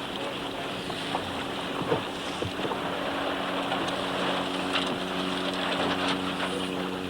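Motorboat engine running at a steady speed, with water rushing past the hull and wind buffeting the microphone.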